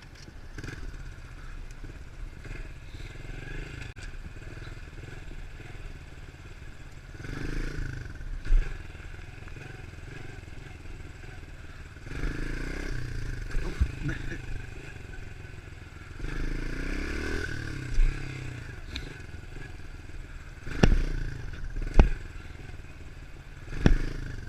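110cc four-stroke pit bike engine running while being ridden, swelling about three times as the throttle is opened and eased. Several sharp knocks come in the second half.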